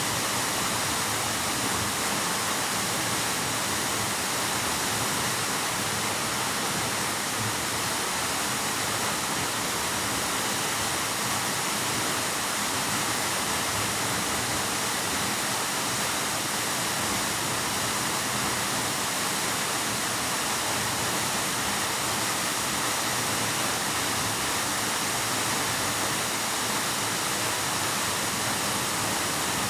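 Waterfall pouring: a steady, unbroken rush of falling water with no separate splashes or breaks.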